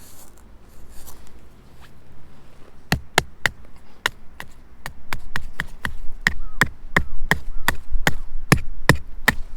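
A run of sharp, evenly paced knocks, about three a second, starting about three seconds in, like a hammer or hatchet striking wood or a stake.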